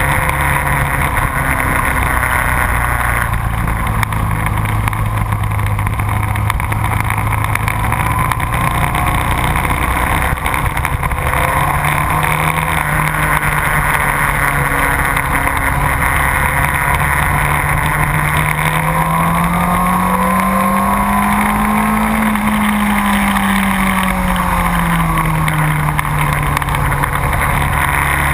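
Motorcycle engine running steadily at speed during track riding. Its note holds, then rises slowly about two-thirds of the way through and falls away again.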